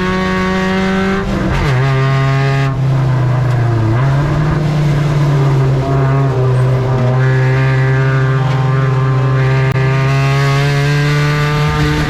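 Spec Ranger race truck engine running at high revs, its note dipping and climbing back a few times as the throttle is lifted and reapplied.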